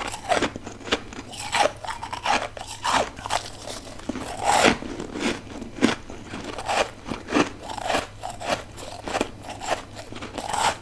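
A person biting and chewing freezer frost and ice, giving crisp, irregular crunches about two times a second.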